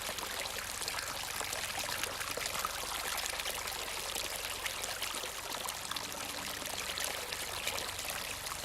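Steady, unbroken rushing noise with a fine crackle, the kind running or pouring water makes.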